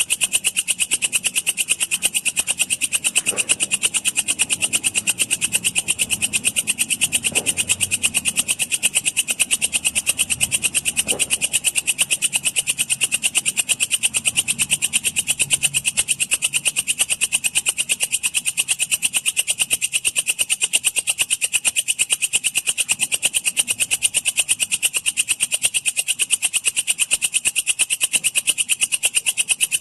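Walang kecek katydid stridulating: a rapid, unbroken train of high-pitched pulses at an even level.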